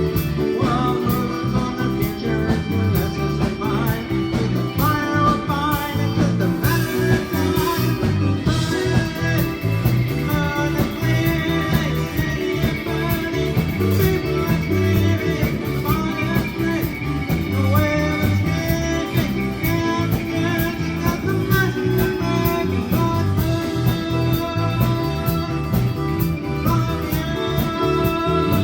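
A live band playing a song, with guitar and a singing voice over a steady rhythmic low end.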